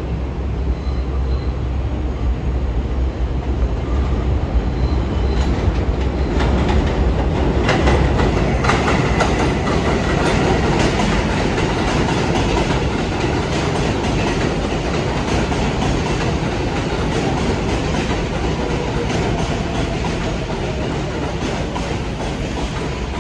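New York City subway train (R142-series cars) running along the track with a steady rumble, growing louder about six seconds in, with a run of sharp wheel clicks over rail joints around eight seconds in.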